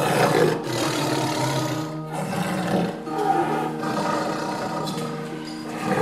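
Lion roaring: several rough roars in a row, over background music.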